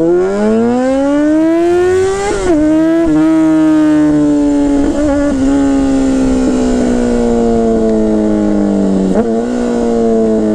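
Motorcycle engine under hard acceleration: its note climbs steeply for about two seconds, then two quick gear changes follow. After that it holds a long pull with the note easing slowly down, and there is another gear change about nine seconds in.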